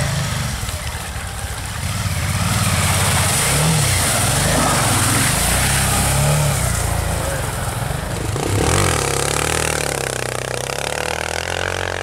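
A vehicle engine revving under load, its pitch rising and falling again and again, with a steady hiss over it; a sharper rev comes about nine seconds in.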